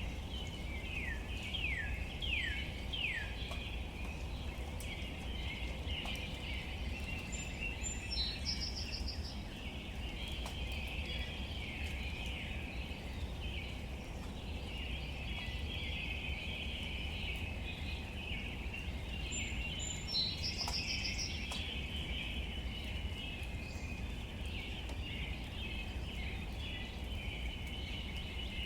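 Outdoor ambience with birds calling: a quick series of falling whistled notes in the first few seconds, and a short high song phrase repeated about every twelve seconds. These sit over a constant high chatter and a steady low rumble.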